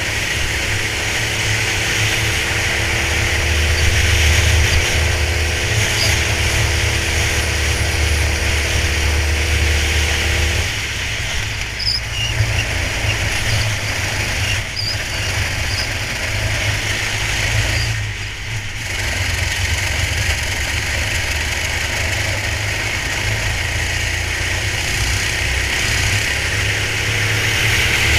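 Racing go-kart engine running at speed, its note climbing steadily for about ten seconds and then dropping away, with a constant rush of wind noise.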